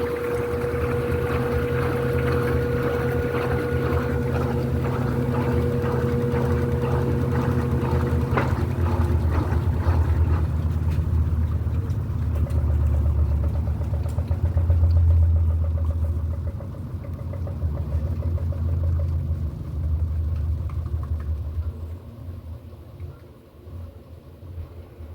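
Electrolux LED14 washing machine running, its motor giving a steady low hum. A higher whine stops about eight seconds in. The machine gets quieter after about sixteen seconds and drops again near the end.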